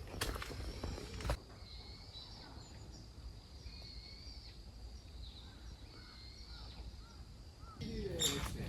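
A few footsteps at the start, then small birds chirping and calling in short, repeated phrases over a quiet background. A voice comes in near the end.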